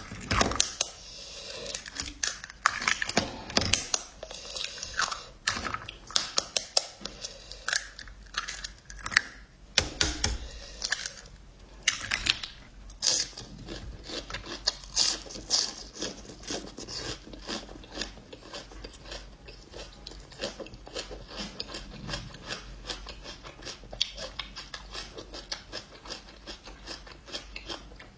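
Close-miked eating: a person chewing fire noodles and eggs, with many short wet mouth clicks and smacks. The clicks are denser and louder for roughly the first half, then fainter and sparser.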